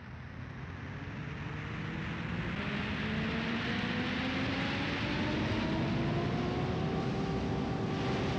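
Engine noise with a whine that rises slowly in pitch as it grows steadily louder, then cuts off abruptly.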